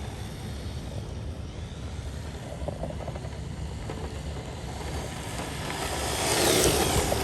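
Redcat RC drift car being driven, its motor whining over a steady low rumble. About six seconds in it grows louder, with a whine that falls in pitch.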